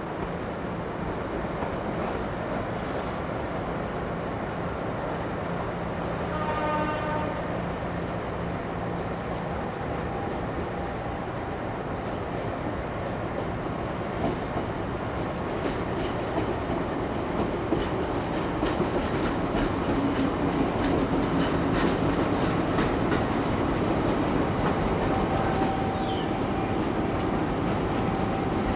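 A train running on the rails, its wheels clicking over the rail joints, louder and more rapid in the second half. A horn sounds briefly about seven seconds in, and a short high squeal falls in pitch near the end.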